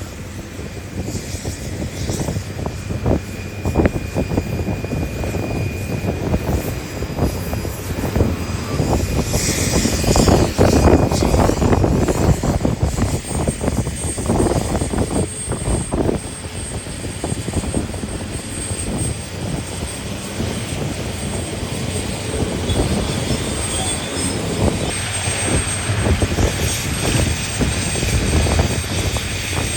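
Heavy diesel engines of a Komatsu PC1250 mining excavator and Komatsu 785 haul trucks running under load: a steady deep drone with irregular knocks and rumbles throughout. A thin high whine comes in about halfway through.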